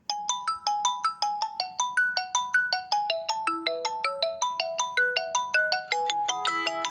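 Phone ringtone playing a bright, marimba-like melody of quick struck notes, about three to four a second, growing busier near the end.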